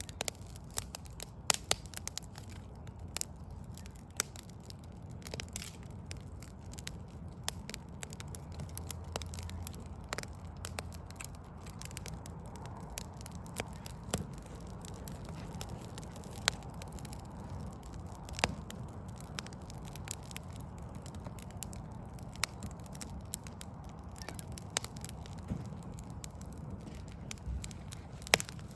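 Backyard wood fire of burning logs crackling, with irregular sharp pops and snaps, a few much louder than the rest, over a steady low rumble.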